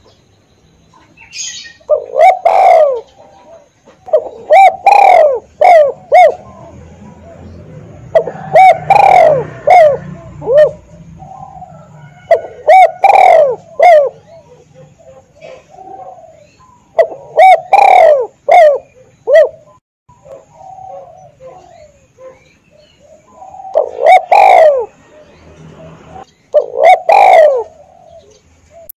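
Spotted dove cooing: about seven separate phrases of low, pitched coos, each lasting one to two seconds, with pauses of a few seconds between them.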